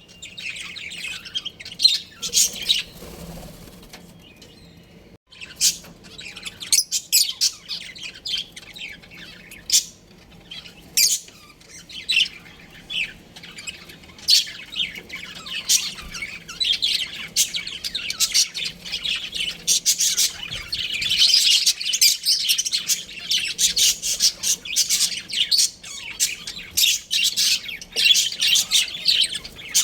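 Budgerigars chirping: a busy run of many short, high calls that thin out a few seconds in and grow densest in the second half.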